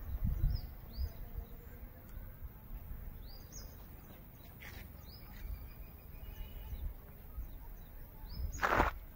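Small birds chirping in short, scattered calls over a low wind rumble on the microphone, with a brief scuffing noise near the end.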